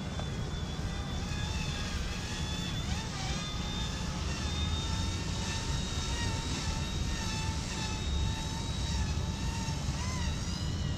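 Small electric RC helicopter, an Eachine E120, flying with a steady high whine from its rotor and motor that wavers up and down in pitch as the throttle changes, over heavy wind rumble on the microphone.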